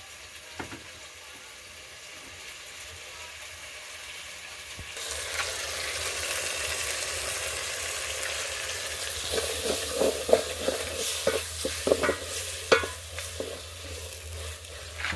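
Food sizzling as it fries in a pot, the hiss growing louder about five seconds in. In the second half a spoon scrapes and knocks against the pot as the food is stirred.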